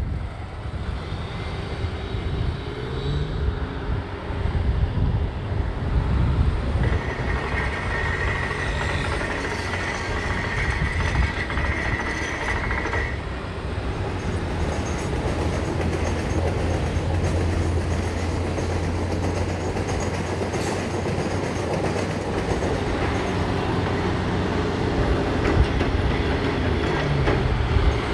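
Indian Railways passenger coaches rolling past on the track, wheels clattering steadily over the rails. A high steady tone joins in for about six seconds, starting about a quarter of the way in.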